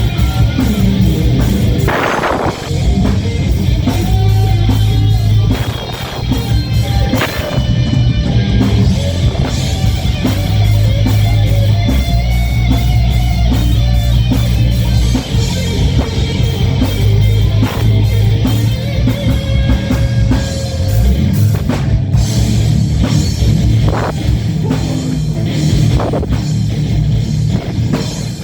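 Live heavy metal band playing: distorted electric guitars over fast drum kit and bass, with no vocals.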